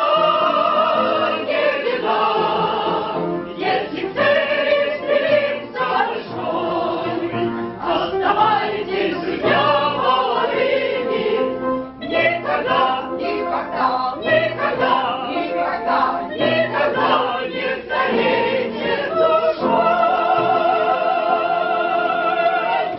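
Several voices singing a song in classical, operatic style with vibrato, ending on a long held note near the end.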